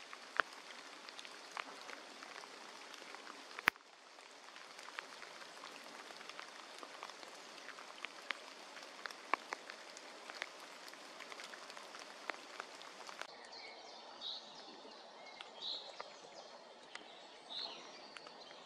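Woodland ambience: a steady hiss scattered with irregular sharp ticks, with one loud click about four seconds in. After a change about 13 seconds in, birds give short high calls.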